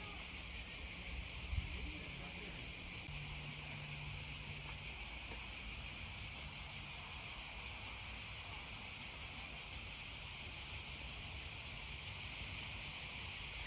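Dense, steady chorus of insects chirring, high-pitched and unbroken, with a faint low hum underneath.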